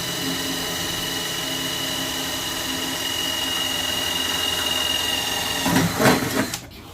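Electric drill running steadily with a high whine, then a few louder rough strokes before it stops suddenly near the end.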